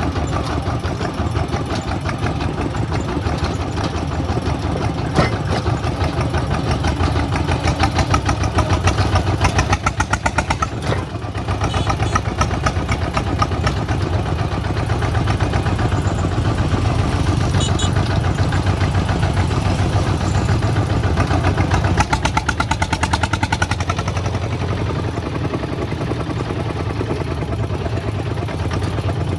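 Kubota two-wheel walking tractor's single-cylinder diesel engine running steadily, with a rapid even beat of firing pulses and a brief drop in level about eleven seconds in.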